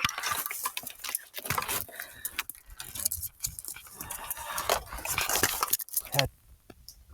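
Handling noise from a handheld audio recorder: a sharp knock at the start, then dense clicks, knocks and rubbing close to its microphones.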